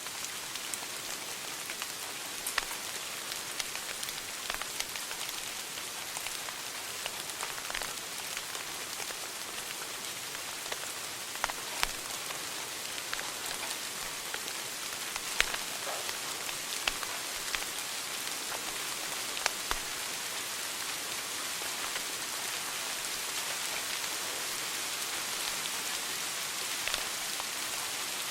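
Wood fire crackling in a fireplace: a steady hiss with sharp pops and snaps at irregular intervals.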